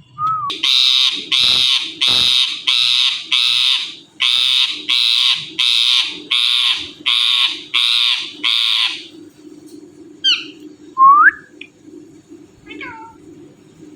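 Indian ringneck parrot screeching: a run of about a dozen harsh, even squawks in quick rhythm, then a few short whistles, one rising. A low steady hum comes in as the squawks stop.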